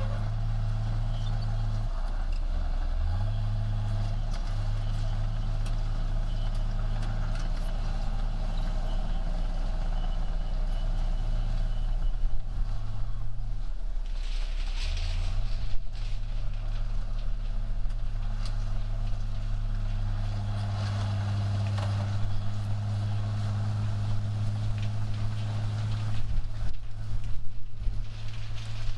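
Heavy earthmoving machine's diesel engine running steadily under load. Its pitch dips and rises again a few times as the revs change, with scattered knocks and clanks.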